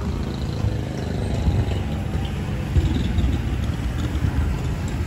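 Harley-Davidson Sportster Iron 883's air-cooled V-twin idling with a low, uneven beat, heard through its aftermarket sport exhaust tip.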